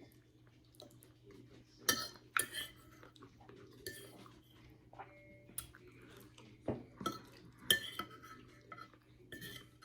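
Cutlery clicking and scraping against a plate of lasagna as it is eaten: scattered light knocks, the loudest around two seconds in and again near the end.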